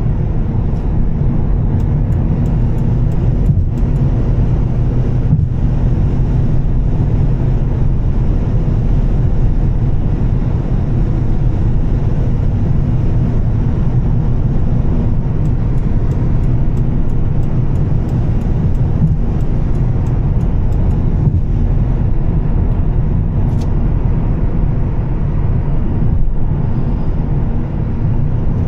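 2013 Volvo S60 T6 with a Heico exhaust, driving at a steady pace: a continuous low rumble of engine, exhaust and tyre noise that holds even throughout.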